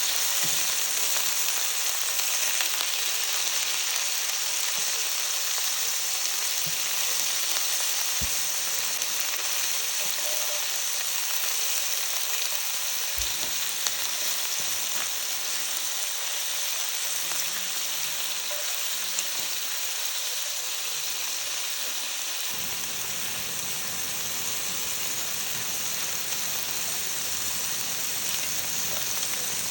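Food sizzling as it cooks: a steady hiss that turns fuller and lower about 22 seconds in.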